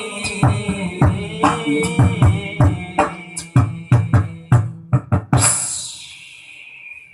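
Instrumental ending of a sholawat song, led by drums beating a steady rhythm that quickens toward the end. A final ringing crash about five seconds in slowly fades away.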